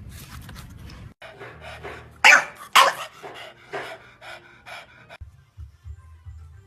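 A dog panting in quick, noisy breaths, with two loud sharp huffs a little over two seconds in. The sound cuts off abruptly about five seconds in.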